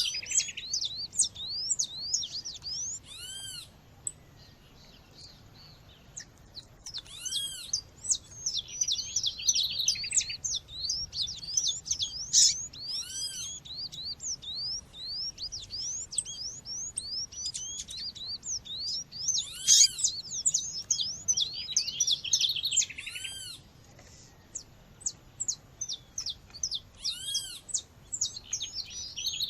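Recorded calls of a female seedeater (coleiro or papa-capim) played over a nature-sound background: a dense stream of quick, high chirps, with a louder arching call recurring every four to six seconds. The track is used to excite male seedeaters into singing.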